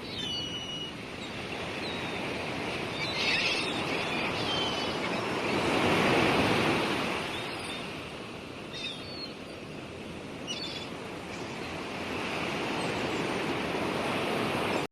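Sea waves washing in, one wave swelling to the loudest point about six seconds in, with short seagull calls now and then.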